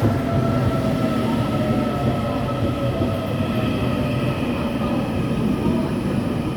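Electric local train pulling into a station: a steady low rumble of wheels and running gear, with a thin whine that falls slowly in pitch as it slows.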